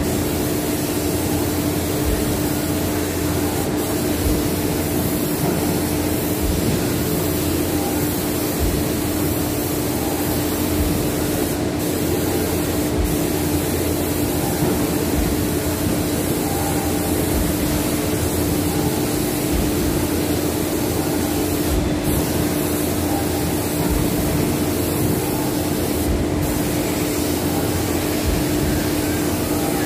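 Steady machine noise: a constant motor hum with an even hiss over it.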